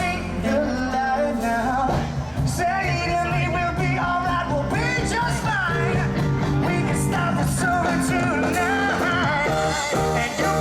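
Rock band playing: a singer's voice over electric guitar, bass and drums.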